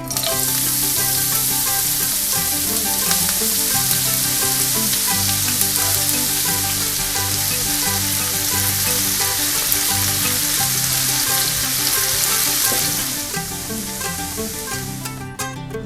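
Food sizzling in hot oil in a pan, starting suddenly and fading out near the end, with plucked-string background music underneath.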